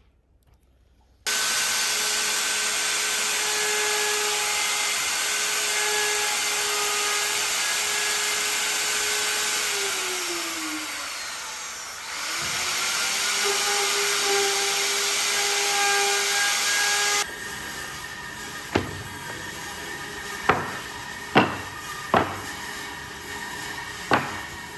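Electric woodworking power tool cutting wood with a loud whirring hiss. Its motor pitch sags for a couple of seconds midway, as it bogs under load, then recovers. It stops abruptly, and several sharp knocks follow over the next few seconds.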